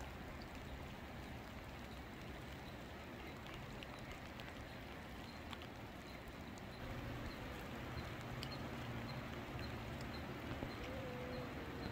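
Steady hiss of rain falling, with faint scattered ticks and a brief faint tone near the end.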